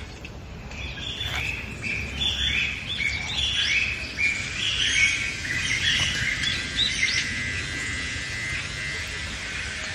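A bird calling: a quick run of short, clear, high notes that jump between pitches for about six seconds, thinning out near the end.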